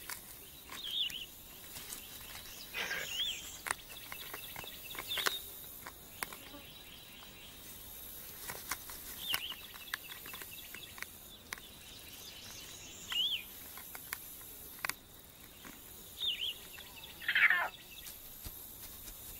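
Outdoor ambience: a bird's short chirps repeated every few seconds over a faint steady hiss, with scattered sharp clicks and a longer falling call near the end.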